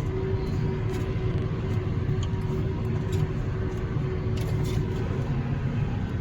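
Tractor engine running steadily: a low, even rumble with a steady hum over it that fades out about five seconds in.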